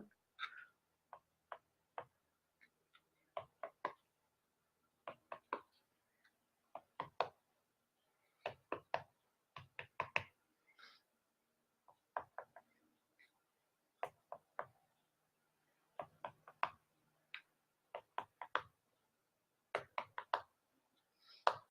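Quiet, scattered light clicks and taps at irregular intervals, as of small objects being handled and set down.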